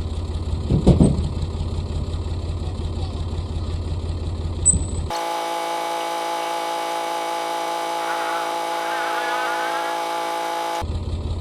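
Sonalika DI 42 RX tractor's diesel engine idling, with a sharp metallic clank about a second in and another knock near the five-second mark. About five seconds in, the engine rumble cuts out abruptly and a steady hum of several tones takes over until just before the end, when the idling returns.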